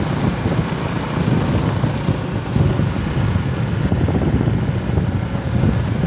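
Motorcycle riding along a road: steady engine and road noise.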